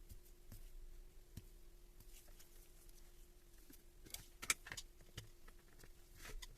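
Faint scattered clicks and light clinks over a faint steady hum, with a cluster of sharper clinks about four to five seconds in and another near the end.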